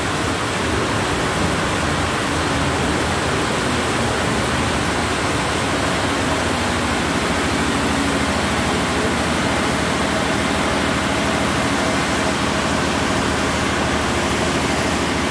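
Heavy rain pouring steadily, with an electric commuter train running along the platform beside it.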